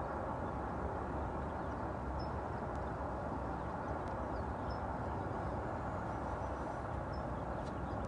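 A bird giving a short, high call about every two and a half seconds, three times, over a steady outdoor background noise.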